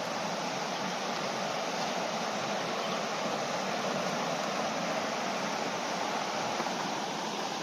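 Fast-flowing river water rushing in a steady, unbroken hiss.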